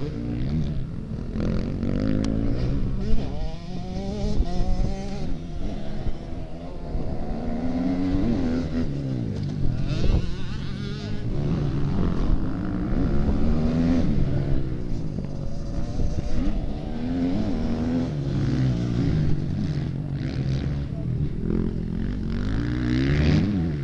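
Motocross bike engines revving up and falling back over and over as they ride the circuit, with several bikes overlapping at different pitches.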